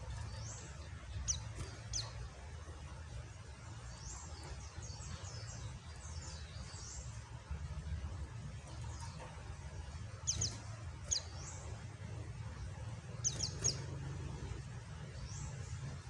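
Pleci (white-eye) giving short, sharp, high chirps in small clusters, with pauses between, over a steady background noise of rain.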